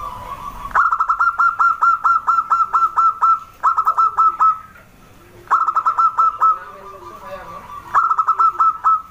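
Zebra dove (perkutut) calling: four bursts of quick, evenly spaced staccato notes, the first and longest lasting about two and a half seconds, with a fainter held tone between the bursts.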